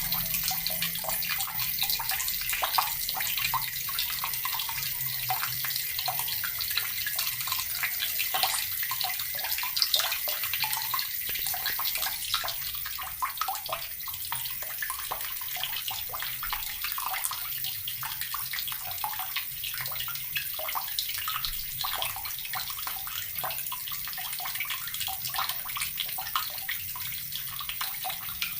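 Water running steadily from a tap and splashing into water below, a continuous hiss with small splashes.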